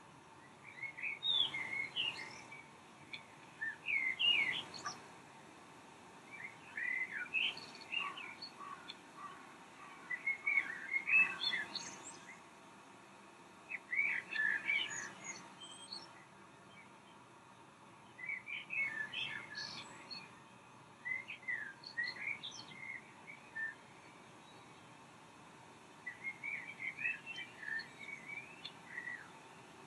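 Small birds chirping and twittering in short phrases of song lasting a few seconds each, with brief pauses between them.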